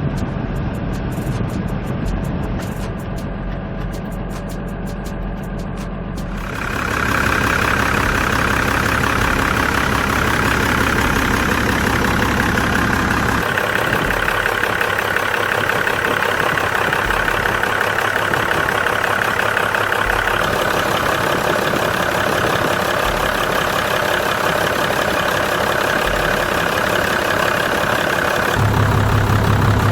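Hyundai 5-ton truck's diesel engine idling steadily. About six seconds in it becomes louder and harsher, and stays that way.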